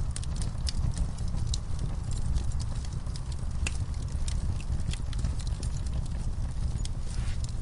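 Wood fire burning in a fireplace, with a steady low rumble under many irregular sharp crackles and pops.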